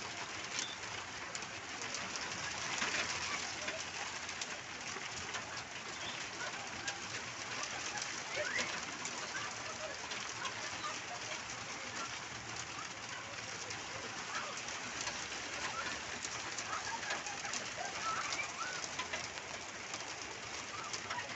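Birds calling with short scattered chirps over a steady hiss of outdoor ambience.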